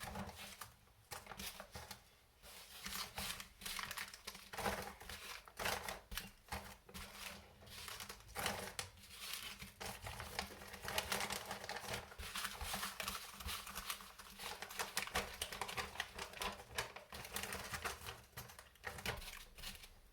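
Small plastic parts bags crinkling and small metal parts clicking as hands sort through kit hardware: a continuous run of light clicks and rustles.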